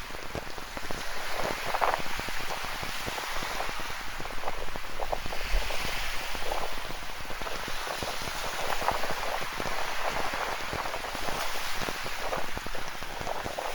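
Steady rain, with many close drops ticking on a surface, over the wash of ocean surf that swells about five seconds in.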